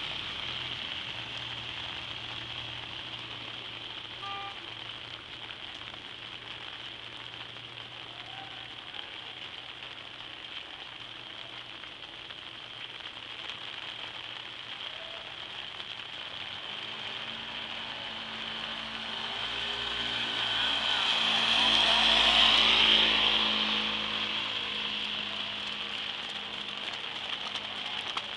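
Steady rain hissing on a wet street. About two-thirds of the way through, a vehicle passes on the wet road, its tyre spray and engine swelling and then fading.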